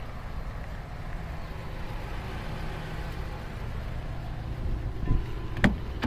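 Subaru Impreza's 1.5-litre flat-four engine idling with a steady low rumble. Two short knocks come about five seconds in.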